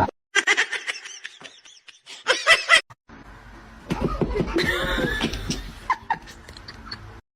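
People laughing in short bursts.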